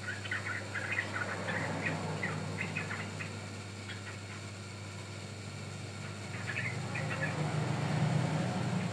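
Sooty-headed bulbul (trucukan) calling in quick runs of short chattering notes, with a pause in the middle. Under the calls a steady low hum swells near the end.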